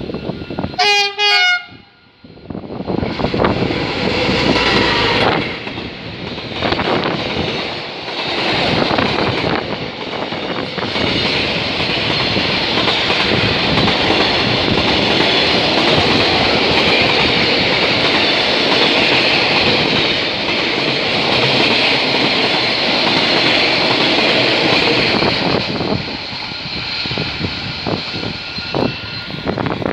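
A diesel freight train sounds a short horn blast, then passes close by, its wagons rumbling and clacking over the rail joints for over twenty seconds. The sound eases off near the end as the train goes by.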